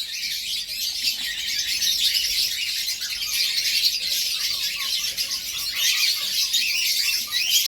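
Young domestic canary, two to three months old, singing a continuous, rapid high-pitched warbling song without a break, with a quick run of lower repeated notes beneath it from about three seconds in.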